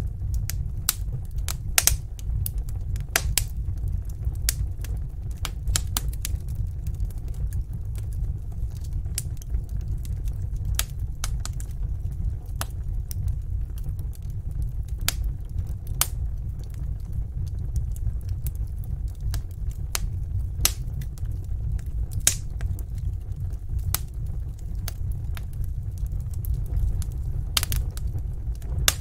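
Wood fire in a fireplace crackling, with irregular sharp pops and snaps, a few louder than the rest, over a steady low rumble.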